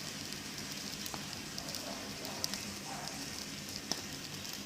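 Bonfire burning: a steady hiss with a few sharp crackles and pops.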